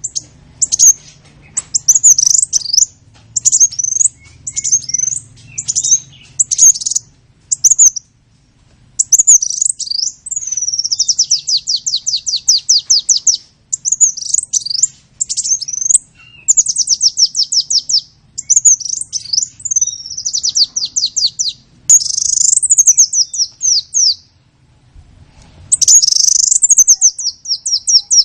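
A songbird singing close by: varied high chirps and fast trills of many repeated notes, in phrases with short pauses between them.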